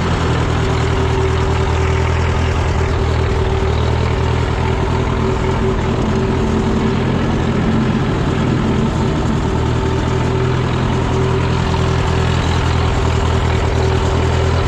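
1963 Massey Ferguson 35 tractor engine idling steadily, with a steady high whine over the low engine note.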